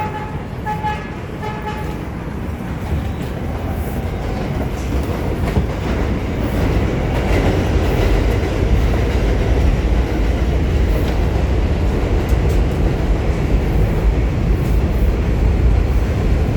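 A New York City subway 7 train pulling out: the rumble of the train and its wheels on the rails builds over the first several seconds as it gathers speed, then runs on steadily.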